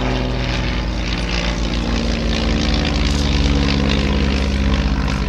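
Ryan Navion single-engine propeller aircraft flying a display pass, its 260 hp Lycoming piston engine and propeller running steadily, with the pitch sliding slowly down as it goes by.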